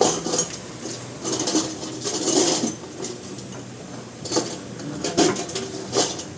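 Hand tools and metal parts clinking and clanking against each other in a series of separate sharp metallic knocks.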